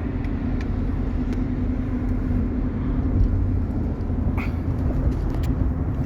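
Steady road and engine noise of a car travelling at highway speed, heard from inside the cabin, with a few faint ticks.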